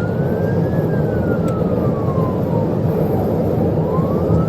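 Police siren wailing slowly, its pitch rising and falling once every four seconds or so, over heavy road and engine noise from a patrol car running at about 100 mph.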